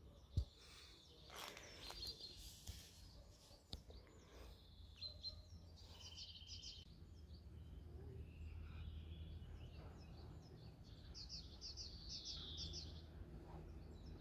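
Faint outdoor quiet with birds chirping in short high trills now and then over a low steady hum, and a single thump about half a second in.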